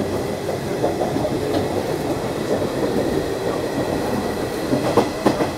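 Running sound of a Nishitetsu 5000 series electric train heard from inside the car at speed: a steady rumble of wheels and running gear, with a couple of rail-joint clacks about five seconds in.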